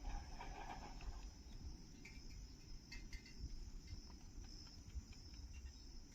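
Faint, steady high-pitched chorus of insects, with a low rumble underneath.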